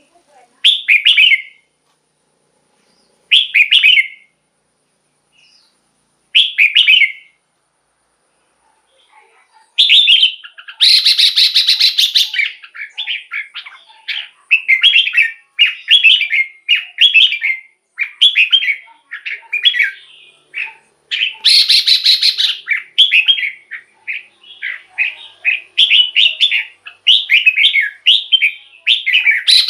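Red-whiskered bulbul singing: three short warbled phrases a few seconds apart, then from about ten seconds in a near-continuous run of quick phrases, broken twice by a harsh, rasping call.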